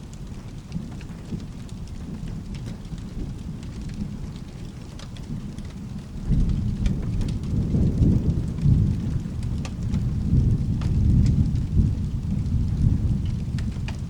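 Steady rain with a low thunder rumble that swells about six seconds in and keeps rolling. Scattered sharp ticks sound over it.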